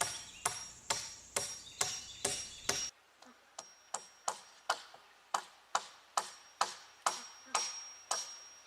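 Steady, evenly timed ticking, a little over two ticks a second, each tick with a short bright ring after it.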